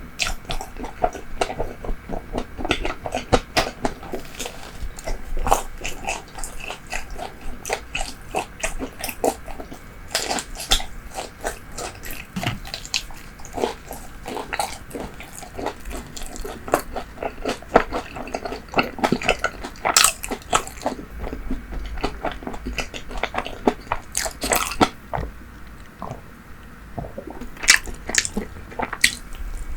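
Close-miked eating: a person biting into and chewing bread and fried pastry, with irregular crunchy, crackling bites and moist chewing throughout.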